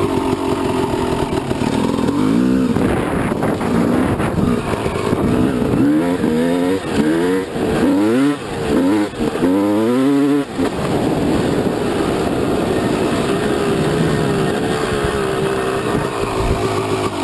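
Two-stroke bike engine running and revving, its pitch rising and falling in several quick sweeps through the middle, then holding steadier near the end.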